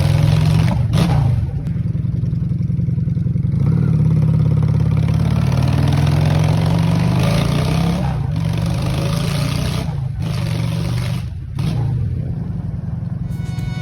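1996 Honda Shadow's V-twin engine running through mufflers that have been cut short, giving a loud, open exhaust note that stays fairly steady.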